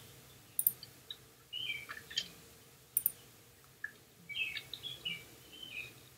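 Faint short chirps like a small bird's, coming in two quick groups, with a couple of sharp clicks between them.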